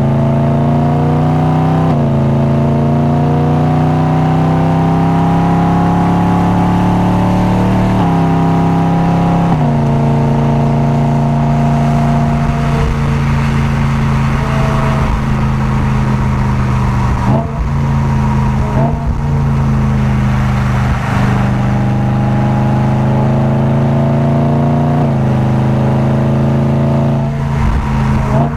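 Car engine under hard acceleration on a race circuit: the engine note climbs steadily through each gear, with upshifts about two and eight seconds in. Around the middle the revs fall in steps, as if downshifting under braking, then the engine pulls up through the revs again and shifts near the end.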